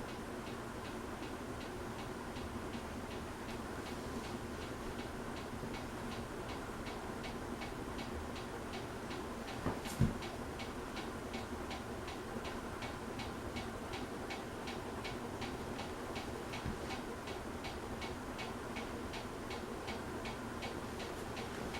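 Litex Aloha Breeze ceiling fan running on high: a steady hum with a quick, regular ticking, several ticks a second, from a fan that really wobbles. There is one louder knock about ten seconds in.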